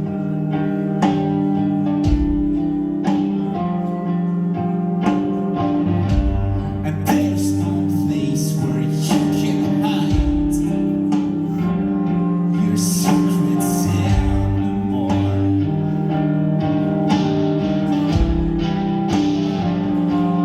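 Rock band playing live: guitars and bass over drums keeping a steady beat of about one hit a second, with a singing voice.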